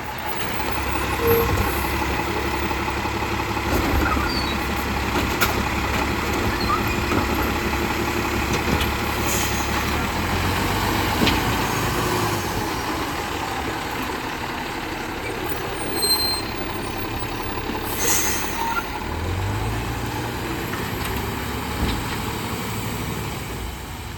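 Autocar WX64 Heil Rapid Rail garbage truck running, its engine rumbling steadily with its pitch stepping up and down. A short hiss of released air about three-quarters of the way through.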